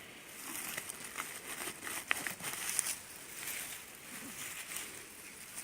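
Dry forest leaf litter and undergrowth rustling and crackling under close handling, with scattered small snaps.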